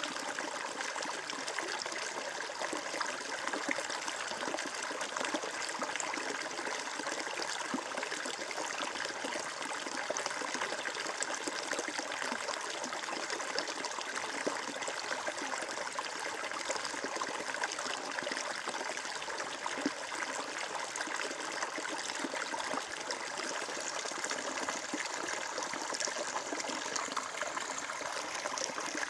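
Water flowing and trickling in a steady, even rush, like a small stream.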